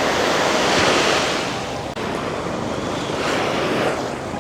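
Surf breaking and washing up the beach, swelling about a second in and again near the end, with wind buffeting the microphone.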